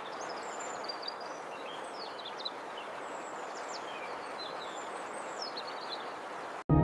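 Small birds chirping in short, high, thin phrases every second or so over a steady rushing background noise.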